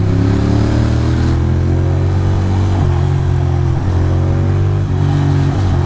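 Ducati Monster's V-twin engine pulling hard as the motorcycle accelerates. The engine note climbs steadily, with brief dips about three seconds in and twice more as it shifts up, over steady wind and road noise.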